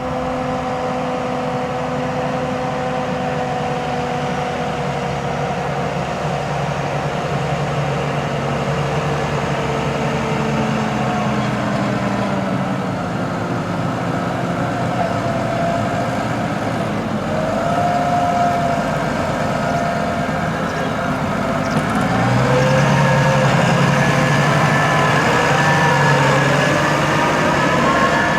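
New Holland T7.245's six-cylinder 6.7-litre NEF diesel engine running steadily, its pitch drifting slowly. It grows louder about two-thirds of the way in, with its note rising.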